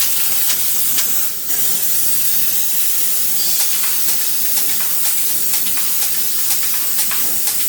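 Pressure washer spraying water, a steady hiss with a short break about a second and a half in.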